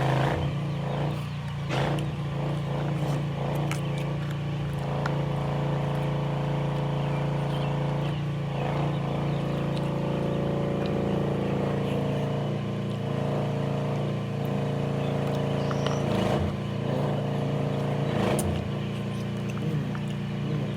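Steady hum of a vehicle engine running at an even speed, with a few short knocks now and then.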